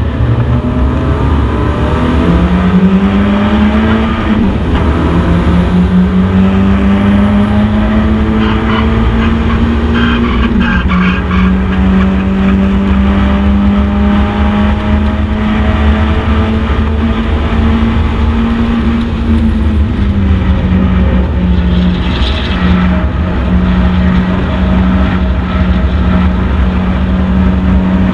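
Mazda MX-5 race car's four-cylinder engine running hard at racing revs, heard from on board over road and wind noise. Its note climbs and then drops back three times through the stretch, with the throttle and gear changes.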